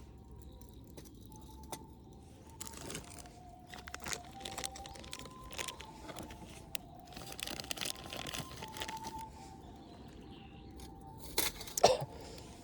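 Soft alto recorder ensemble music playing a slow melody of held notes, under rustling, crinkling and clinking handling sounds, with two loud sharp clinks near the end.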